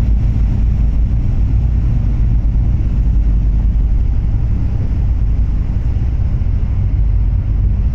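Ship's engines running, a steady low rumble with a faint hum.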